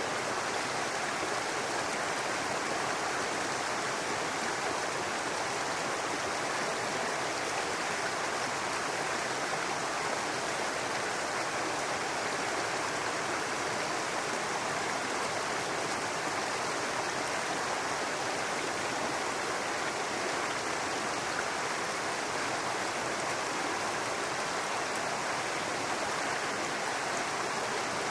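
Small brook babbling steadily over rocks, a continuous even rush of running water.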